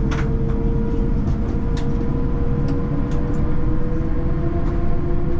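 Cabin noise inside an Airbus A350-1000: a steady deep rumble with the even hum of its Rolls-Royce Trent XWB engines, and light clicks and rattles from the cabin fittings.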